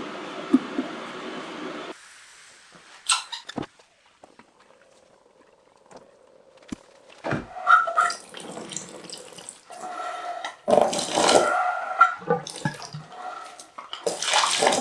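A steady hiss that cuts off about two seconds in, followed by irregular splashing and running water with knocks and clinks, as of something being rinsed or washed by hand.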